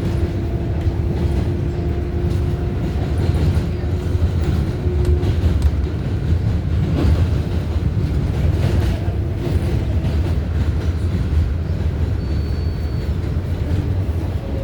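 An R188 subway car running between stations, heard from inside: a steady low rumble of wheels on rail, with a faint motor whine and a few clicks of wheels crossing rail joints.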